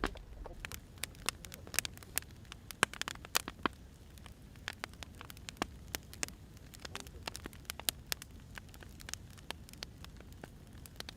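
Wood fire burning, with irregular sharp crackles and pops from the logs over a low steady rumble of the flames.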